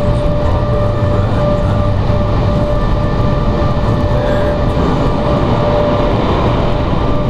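Automatic car wash machinery heard from inside the car: a loud, steady rushing noise with a constant whine running through it.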